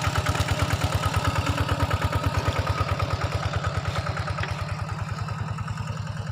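A small engine running steadily with a rapid, even beat, easing off slightly toward the end.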